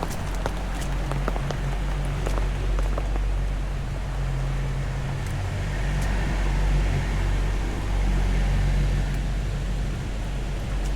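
Rain falling, with separate drops ticking sharply in the first few seconds, over a steady low rumble and hum that swells in the middle and later part.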